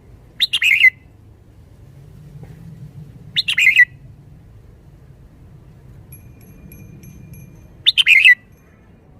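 Red-whiskered bulbul singing three short, loud song phrases, each about half a second long and a few seconds apart.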